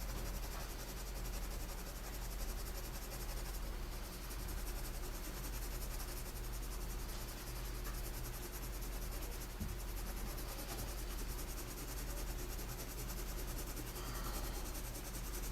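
2H graphite pencil hatching on paper: a soft, continuous scratching of repeated strokes, over a steady low electrical hum.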